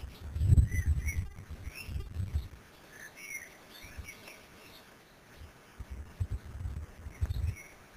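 Short high bird chirps, a few at a time, over low irregular rumbling that is loudest in the first two seconds and again near the end.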